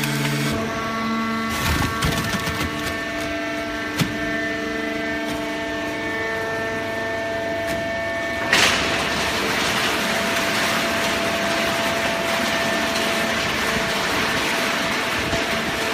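Full-automatic plastic bottle baler running: a steady machine hum with a few clicks and a sharp knock in the first seconds. About eight and a half seconds in comes a sudden loud burst, and after it a steady rushing noise.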